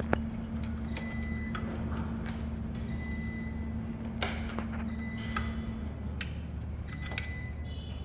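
Irregular small clicks and taps of SATA cables and plastic connectors being handled and fitted inside a desktop computer case, over a steady low hum that stops about six seconds in.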